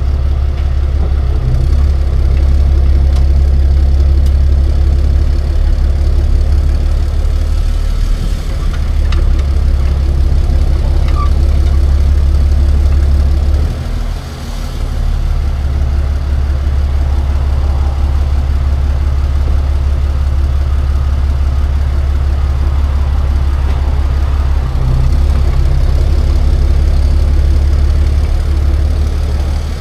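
Tow truck engine running with a steady low drone, which dips briefly about halfway through.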